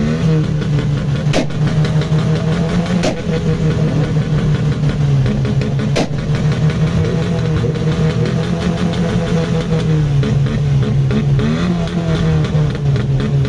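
Škoda Felicia's four-cylinder engine and exhaust held at steady high revs for a sound contest. The revs dip about ten seconds in and climb back near the end. Three sharp pops come in the first six seconds.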